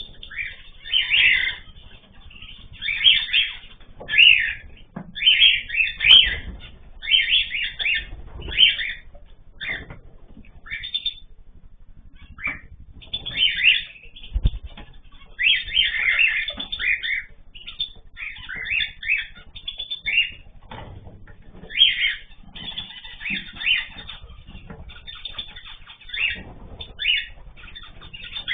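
A mix of small cage birds (cockatiels, canaries, zebra finches, goldfinches) chirping and calling in frequent short flurries, with brief lulls between them.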